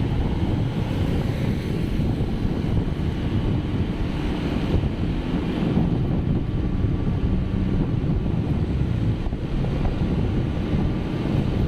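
Steady wind rumble buffeting the microphone, over the road noise of a moving vehicle.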